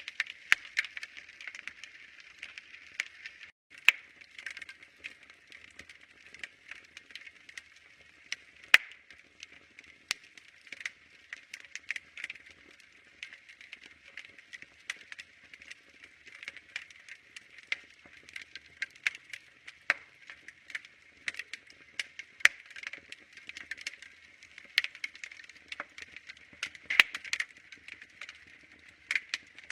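Fire crackling in a fireplace: a soft hiss dense with small snaps and pops, several a second, with a few louder pops. The sound cuts out for an instant about three and a half seconds in.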